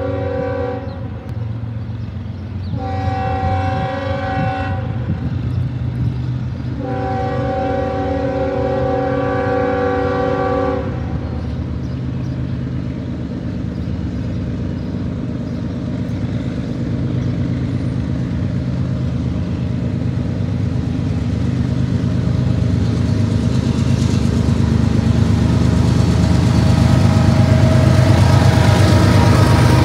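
Air horn of Union Pacific diesel freight locomotive 7941: the tail of one blast, then two more blasts, the last about four seconds long and ending about eleven seconds in. After that the diesel engine noise of the lead locomotives grows steadily louder as they approach and draw alongside.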